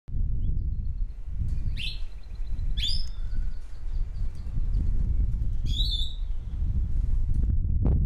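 Birds giving a few short, high chirps and whistles, near two, three and six seconds in, over a steady low rumble.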